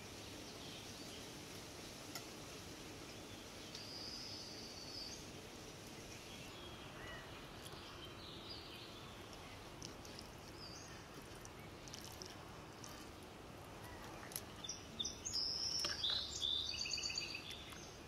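Small birds chirping over a steady outdoor background hiss. A flurry of short high chirps near the end is the loudest part.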